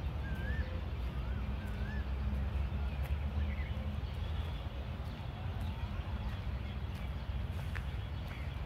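Outdoor park ambience with a steady low rumble. A bird whistles several short, wavering notes in the first two seconds.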